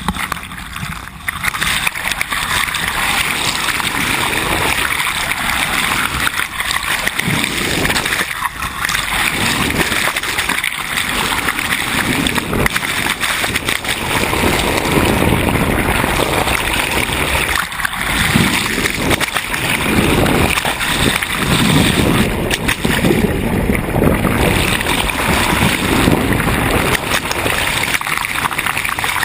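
Steady rush of water splashing and gurgling along the hull of a moving sailboat.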